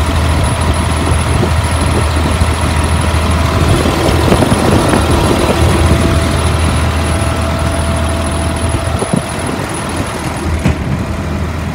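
A 2003 Blue Bird All American school bus engine idling steadily, running well after almost an hour. About nine seconds in, the low hum weakens a little, and a faint high whine stops near the end.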